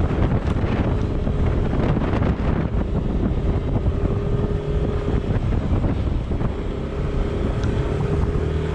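Wind buffeting the microphone over the running engine of a moving vehicle, a steady low rumble with a drone holding one pitch.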